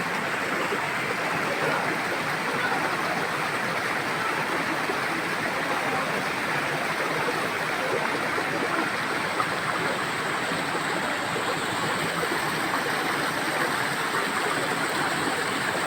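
Steady rushing of mountain water, a constant even noise with no let-up.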